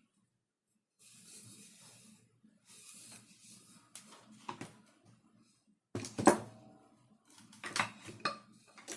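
Hard plastic parts being handled on a workbench: sliding and rubbing, then a run of sharp clicks and clacks, with one loud knock about six seconds in.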